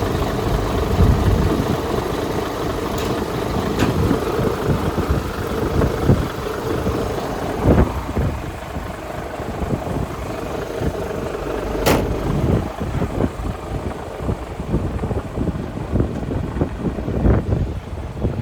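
Mercedes-Benz Arocs 1851 truck's straight-six diesel idling steadily, with a few sharp clicks or knocks over it.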